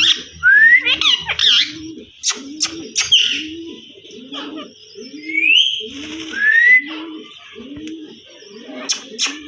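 Birds calling: a low cooing note repeats steadily about one and a half times a second, while a parrot gives short upward-gliding whistles and sharp clicky squawks over it, most of them in the first half and again near the end.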